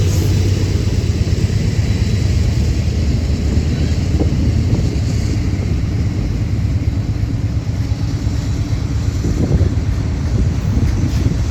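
Union Pacific diesel-electric freight locomotives rumbling steadily with a low engine hum as they pass slowly, with wind buffeting the microphone. A few short clicks near the end.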